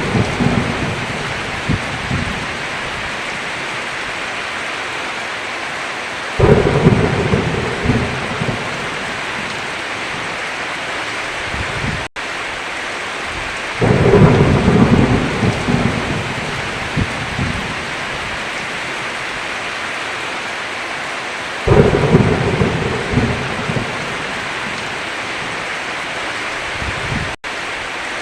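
Heavy rain falling steadily, with a rumble of thunder that comes in suddenly about every seven to eight seconds and dies away over a couple of seconds.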